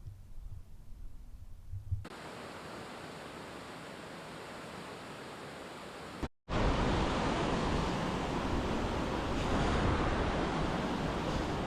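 Steady rushing of meltwater, like a fast stream or waterfall, heard as an even hiss. It changes abruptly about two seconds in, drops out for a moment about six seconds in, and comes back louder and fuller.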